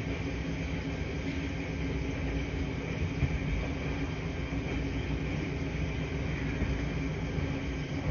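Laundry-room machines running: a steady low hum with a few constant low tones under an even hiss.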